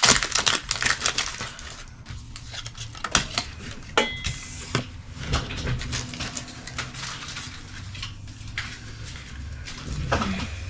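Scattered light clicks and taps of Pokémon trading cards and their packaging being handled and set down on a table, over a steady low hum.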